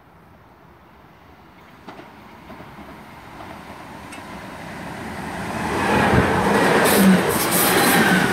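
Class 323 electric multiple unit approaching and running through the station, the sound of its wheels on the rails growing steadily louder over the second half.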